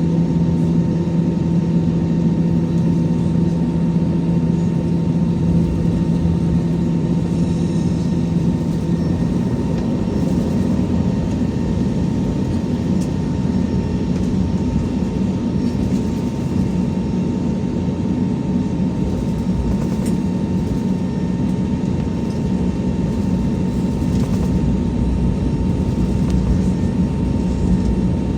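Steady engine hum and rumble in the cabin of an Airbus A321, with a faint steady whine above it; about ten seconds in, the pitch of the engine hum shifts slightly upward.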